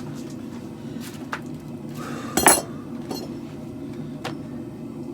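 Hammer working a steel blade on an anvil: a few light metallic clinks and one loud ringing blow about two and a half seconds in, as the blade is flattened. A steady low hum runs underneath.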